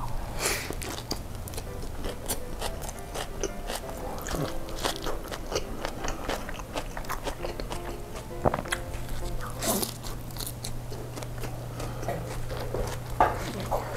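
Close-miked mouth sounds of a person biting into and chewing a Turkish kebab wrap: a bite near the start, then wet, irregular chewing with small crunches and clicks throughout.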